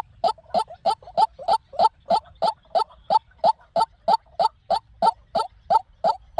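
White-breasted waterhen calling: a steady, unbroken series of short, slightly rising notes, about three a second.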